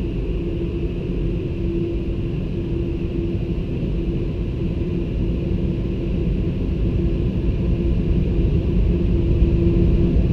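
Automatic car wash machinery running: a steady low rumble with a constant hum, growing slightly louder near the end.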